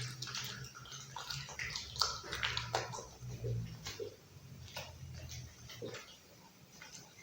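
Pit bull chewing raw chicken: irregular wet crunches and smacks of its teeth on meat and bone.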